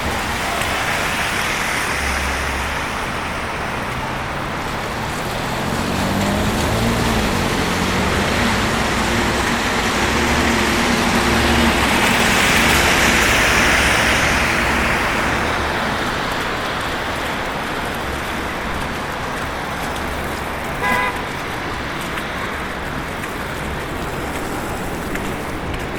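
Street traffic: cars driving past with steady tyre and engine noise that swells as a vehicle passes around the middle. A short car-horn toot sounds late on.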